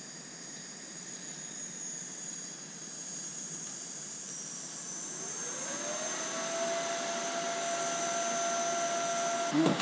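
A steady machine hiss that slowly grows louder. About five seconds in it is joined by a motor tone that rises in pitch and then holds steady, as a tool spinning up to speed would.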